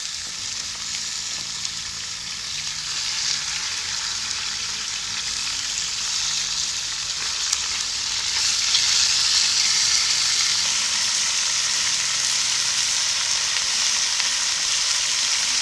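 Cut-up chicken breast frying in hot peanut oil in a Dutch oven, a steady sizzle while it is spread around with a spatula. The sizzle grows louder about eight seconds in.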